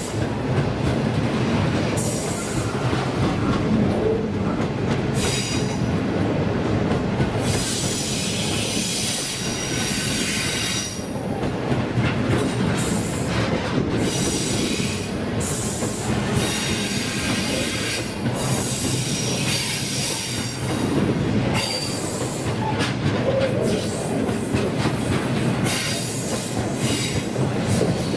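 A freight train's grain hopper wagons rolling past close by with a steady loud rumble. Their wheels squeal high-pitched on the curving track, coming and going several times.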